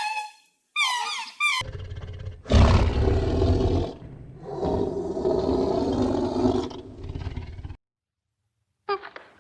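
A short, high, wavering whine, then a large animal roaring: one loud deep roar and a second, longer one, which stop suddenly near the end.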